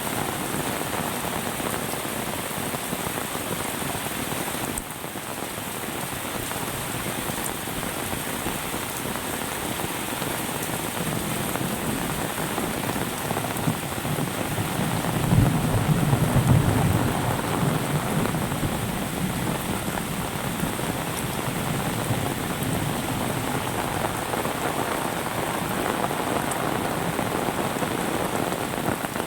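Steady heavy rain pattering on surfaces. About halfway through, a low rumble swells for a few seconds and fades under the rain.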